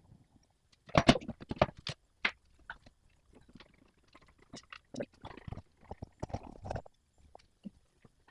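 Hand tools and metal parts knocking and clicking against each other in hand work on a pressure washer: a quick cluster of sharp knocks about a second in, and another run of clicks and knocks from about five to seven seconds in.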